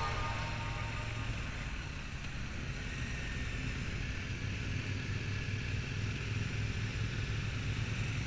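Motorcycle engines running with a low, steady rumble.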